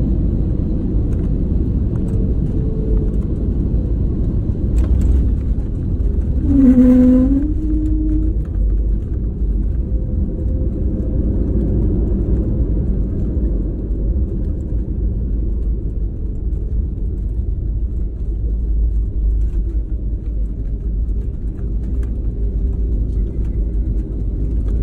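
Steady low rumble of an airliner's engines and airflow heard inside the passenger cabin. About seven seconds in, a brief pitched tone dips and then rises.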